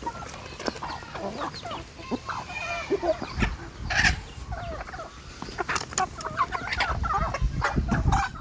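Chickens clucking and chirping in many short, overlapping calls, with scattered sharp clicks and bouts of low rumbling about halfway through and near the end.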